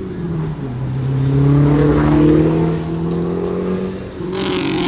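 Car engine under throttle, its pitch dipping then rising and getting loudest in the middle before easing off near the end.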